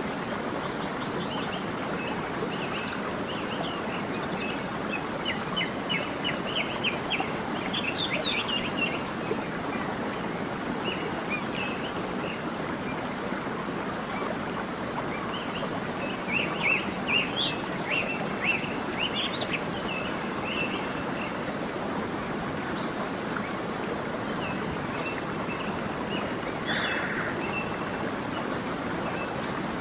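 Steady rush of a running stream, with small birds chirping over it in two bouts of quick high twitters, one about five seconds in and one about sixteen seconds in, and a short call near the end.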